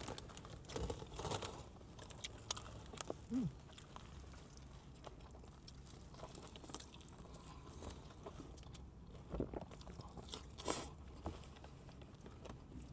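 A person chewing a bite of fried Nashville hot chicken slider up close: faint mouth sounds with scattered short crunches and clicks.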